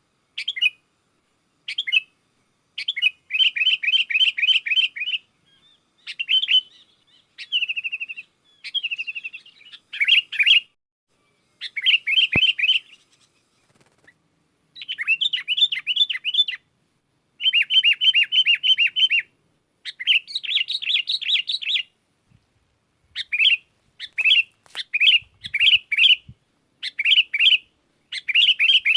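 Sooty-headed bulbul chattering: rapid runs of about five sharp chirps a second, broken by short pauses.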